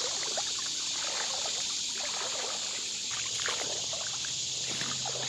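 Creek water trickling and splashing in small irregular patters, under a steady high buzz of summer insects.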